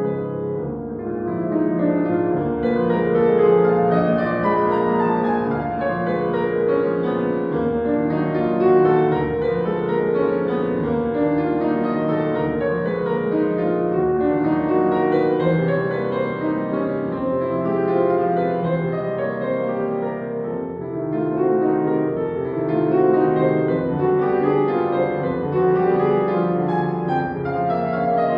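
Solo acoustic piano playing classical music: a continuous, flowing stream of notes at steady volume.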